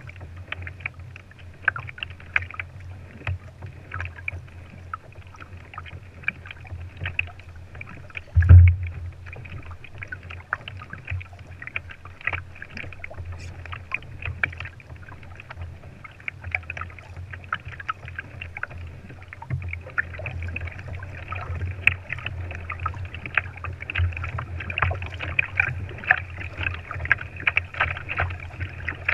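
Water splashing and lapping against a kayak hull, with many small crackling splashes over a steady low rumble. One heavy thump about eight and a half seconds in.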